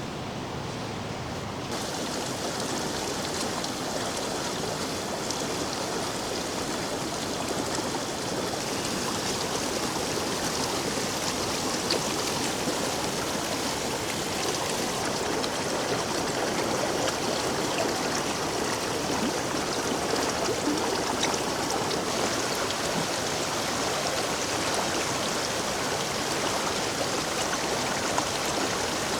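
Steady rushing water of a mountain stream and waterfall, a constant hiss that turns brighter about two seconds in.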